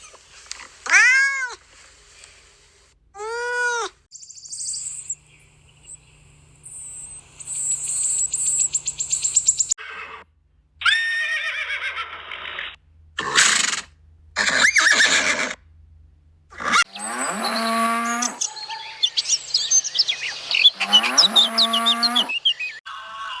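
A series of different animal calls one after another: two short arching calls near the start, a long high buzzy trill, several harsh short calls, then two long, pitched calls near the end.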